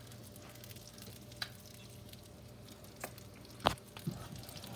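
Potatoes being stirred and tossed in dressing in a pot: soft, wet stirring with a few sharp clicks of the utensil against the pot, the loudest about three-quarters of the way through. A steady low hum runs underneath.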